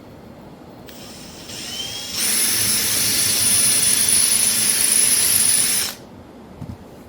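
Power drill running, probably driving a fastener to mount a metal star on wood: it starts faintly with a rising whine, then runs steadily at full speed with a high whine for nearly four seconds and stops abruptly. A light knock follows near the end.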